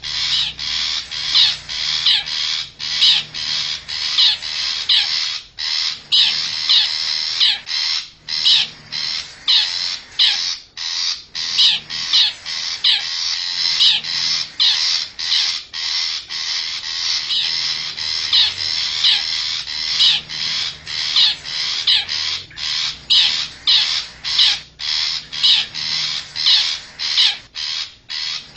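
Long-tailed shrike (cendet) giving harsh, rasping scolding calls in quick succession, about two a second, played as a bird-lure call.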